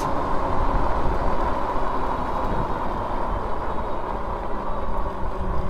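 Nakto Folding OX fat-tire e-bike climbing a hill on throttle alone, with its 500-watt geared hub motor under full load: a steady rush of riding noise.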